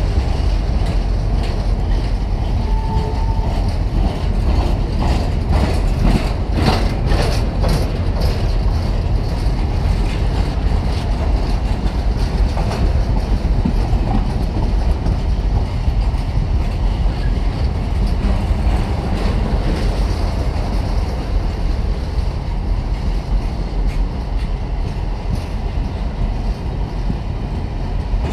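Empty flat freight wagons rolling past close by, with a steady rumble of wheels on rail. A quick run of sharp clattering clicks from the wheels comes about six to eight seconds in.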